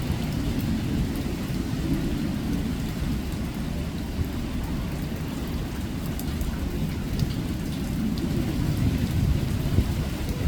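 Hurricane wind and rain, the gusts buffeting the microphone as a steady, fluctuating low rumble, with a few faint ticks above it.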